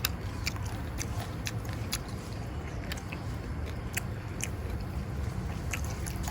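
A person chewing a mouthful of raw beef with fresh vegetables, with irregular crisp crunches over a low steady hum.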